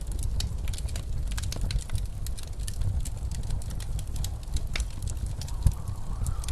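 Wood fire crackling in a fireplace, with many sharp pops and one louder knock near the end, over a steady low rumble of blizzard wind.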